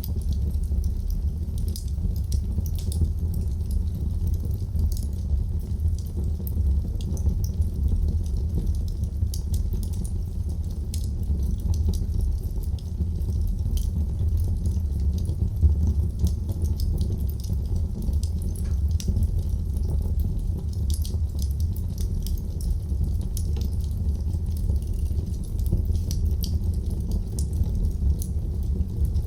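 Wood fire burning in a fireplace with a steady low rumble and frequent sharp crackles and pops scattered throughout.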